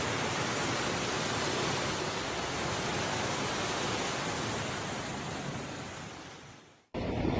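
Floodwater rushing, a steady even rush of noise that fades out near the end; after a brief gap a similar rushing noise starts abruptly.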